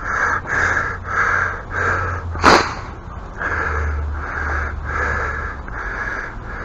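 Rapid, heavy breathing close to the microphone, about two breaths a second, with one sharper, louder breath or sniff about two and a half seconds in.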